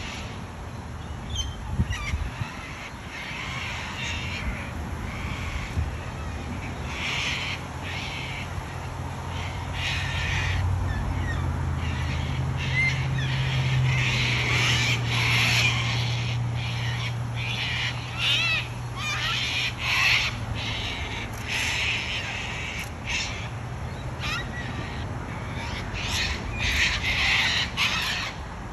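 Wild cockatoos screeching over and over, harsh raspy calls coming close together and overlapping. A low steady hum swells and fades in the middle.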